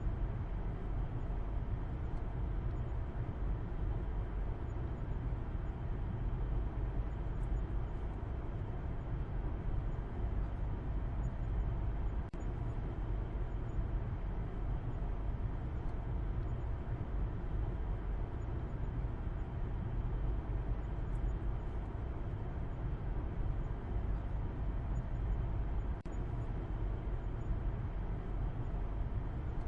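A car driving at a steady speed: a constant low rumble of the moving vehicle, with a fainter hiss above it and no change throughout.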